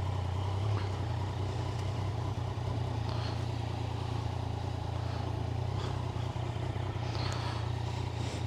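A vehicle engine idling with a steady low hum; the pitch does not change and there is no revving.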